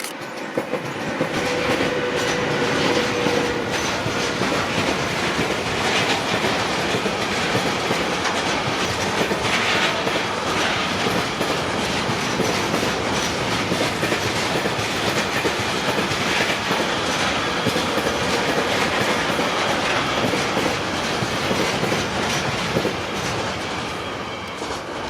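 A train passing at close range, its wagons' wheels clattering steadily over the rails for the whole pass. The sound swells in during the first second.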